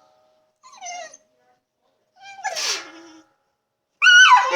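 Pit bull whining in three short, high cries that slide down in pitch, the middle one breathy and the last, near the end, the loudest. She is straining to get to water she can't reach.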